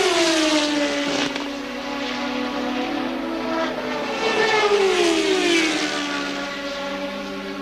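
Two 1983 Formula One cars passing one after the other at racing speed, the engine note of each dropping in pitch as it goes by; the first passes at the very start and the second about five seconds in.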